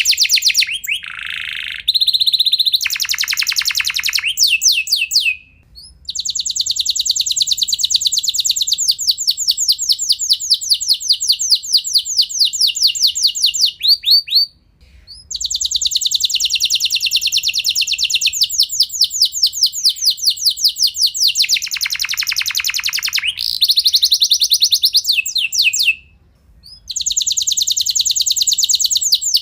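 Domestic canary singing long rolling trills of rapidly repeated high notes, changing from one trill to the next and broken by three short pauses.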